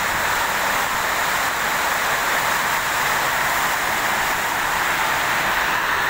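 Rain falling on a corrugated metal platform roof: a steady, even hiss.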